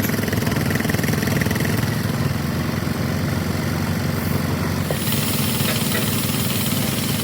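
An engine running steadily at idle, with a fast even pulse and more hiss from about five seconds in.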